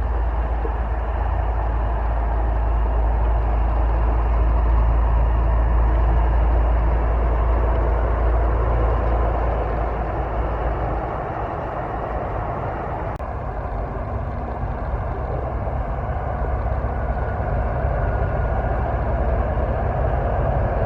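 Road traffic with heavy trucks driving past: a steady engine and tyre rumble, heaviest for the first half and easing off about halfway through.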